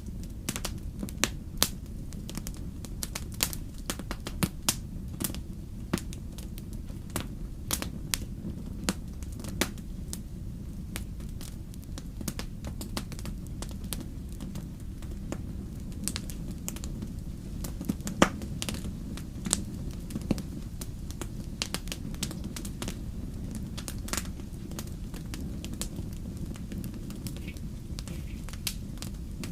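Fire crackling: irregular sharp pops and snaps over a steady low rumble, with one louder pop a little past the middle.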